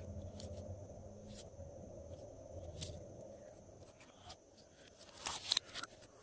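Glossy slime being handled and mixed: scattered soft clicks and sticky pops, with a louder run of crackling pops about five seconds in.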